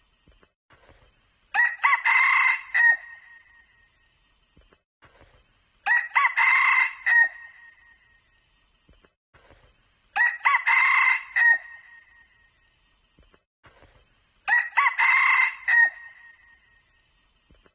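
Red junglefowl cock crowing, four short crows about four seconds apart.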